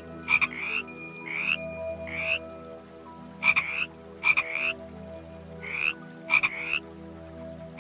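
An animal giving short chirping croaks, about nine in all at irregular intervals, sometimes two close together; each call starts with a sharp click and rises briefly in pitch.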